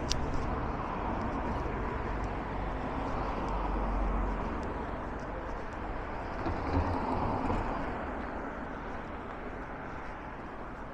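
Town street traffic: passing vehicles, growing louder about four seconds in and again around seven seconds, then easing off. A sharp click at the very start.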